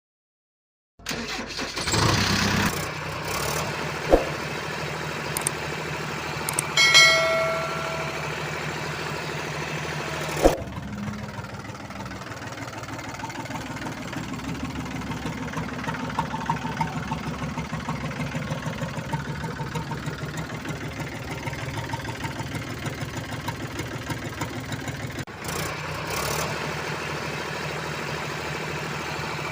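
A vehicle engine starting and running at a steady idle, with a fast even pulse. Partway through there is a short horn-like tone and a couple of sharp clicks.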